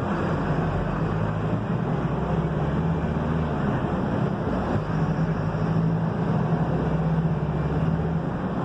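Mercedes-Benz OF-1721 bus's diesel engine running steadily while the bus is under way, a low hum over road and tyre noise.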